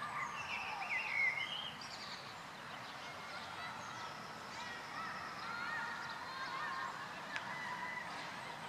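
Several small birds chirping and whistling at once, with a few louder calls about a second in.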